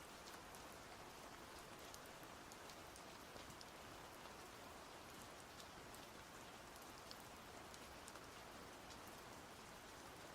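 Faint steady rain: an even hiss with scattered drops ticking.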